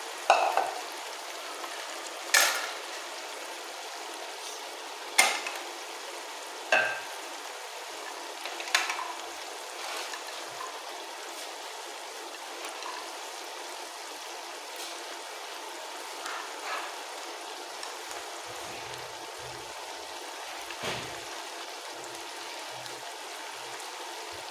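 Potato-and-pea masala sizzling in oil in a large aluminium pot, a steady hiss broken by sharp pops every couple of seconds in the first half and fewer, fainter ones later.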